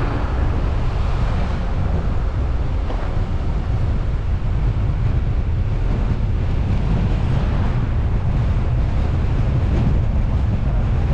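Steady low wind rumble buffeting the microphone of a camera mounted on a moving car, with the car's road and engine noise underneath.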